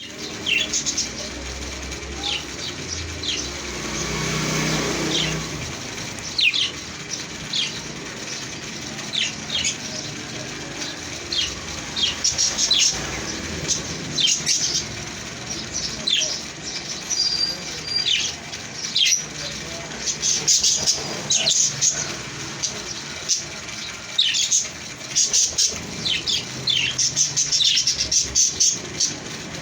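Small pet parrots chirping: many short, sharp, high calls that fall in pitch, often several in quick succession. A low rushing sound swells and fades about four to five seconds in.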